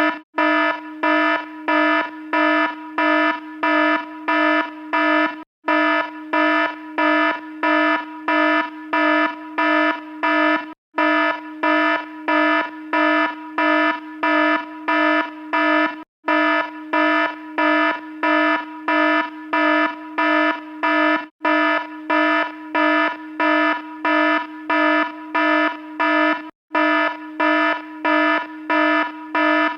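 Electronic alarm sounding a buzzing tone in fast, even on-off pulses, with a brief break about every five seconds.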